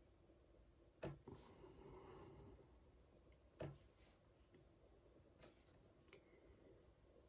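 Near silence: room tone with three faint, short taps spaced a second or two apart.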